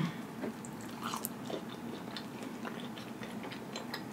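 A person chewing a bite of pepperoni pizza with mouth closed: faint, scattered wet clicks and smacks of the mouth.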